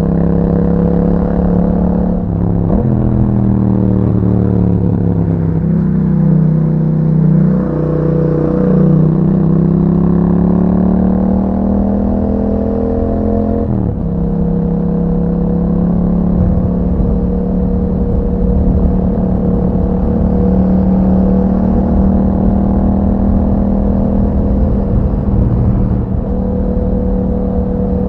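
2021 Yamaha MT-07's parallel-twin engine through an Akrapovic exhaust, running steadily under way. The engine note shifts sharply twice, about three seconds in and again near fourteen seconds in.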